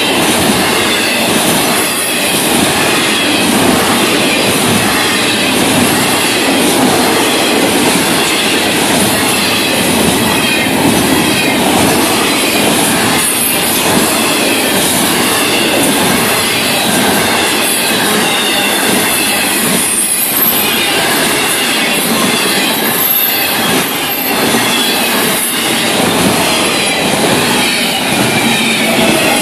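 Double-stack intermodal container cars of a freight train rolling past, a steady loud rush of steel wheels on rail, with a faint wavering wheel squeal on top.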